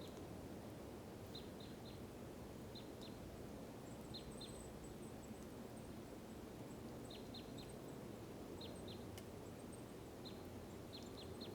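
A small bird calling, repeated short high chips in twos and threes every second or two, over faint steady outdoor background noise.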